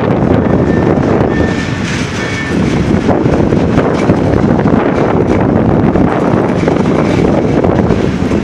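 Passenger train running at speed, heard from an open carriage window: a steady loud rumble of wheels on the track with wind buffeting the microphone.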